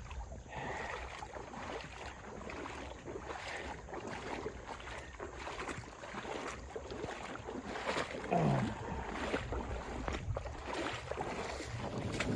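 Footsteps and rustling through brush and leaves underfoot, with irregular crackles and a steady outdoor background hiss.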